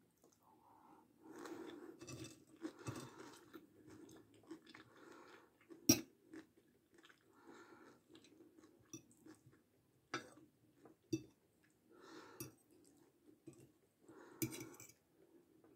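Close-up chewing of chicken strogonoff with rice and crunchy fried potato sticks, with several sharp clicks of a metal fork against the plate, the loudest about six seconds in.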